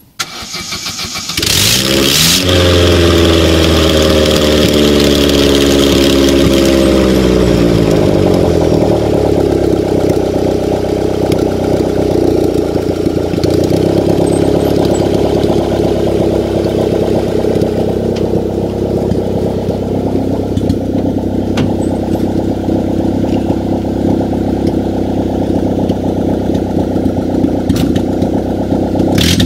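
Vauxhall Astra Mk3 petrol engine starting: it catches about a second and a half in, runs fast at first, and its speed falls over the next several seconds to a steady idle.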